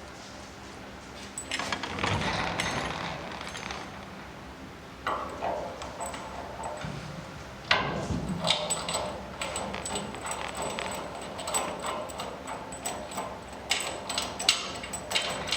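Metal tools and bolt hardware being handled while a steering rack is fitted to a race car chassis: irregular clinks, scrapes and small clicks, with a sharp metal knock about halfway through.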